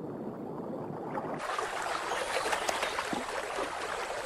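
Water running in a shallow stream. The sound changes about a second and a half in to a brighter, fuller rush.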